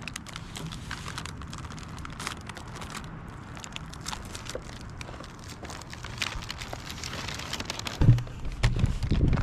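Crinkling of a plastic snack package being handled and put away: many small irregular crackles. A few louder low thumps come near the end.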